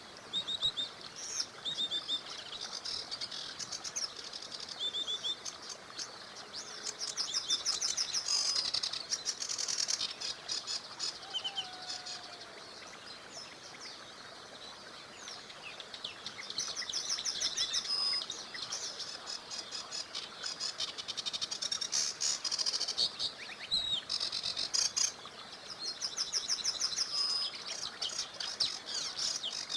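Songbirds singing in bouts of rapid trills and chirps, with a quieter spell near the middle, over the faint steady rush of a small river.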